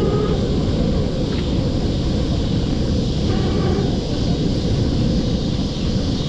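Wind buffeting a GoPro Hero 9's microphone on a moving e-bike, a steady loud rushing with faint tones that come and go.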